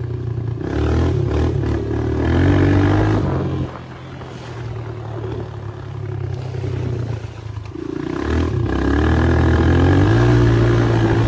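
140cc dirt bike engine running under throttle, its pitch climbing as it accelerates twice, with a quieter stretch off the throttle in between.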